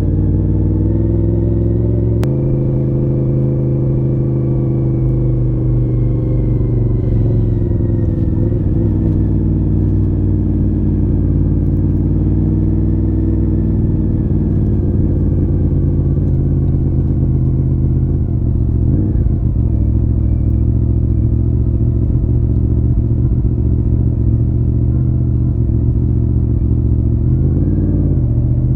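1993 Honda VFR750 RC36 V4 engine running through a modified stock muffler. It holds fairly steady revs, with slow, gentle rises and falls in pitch. There is a sharp click about two seconds in.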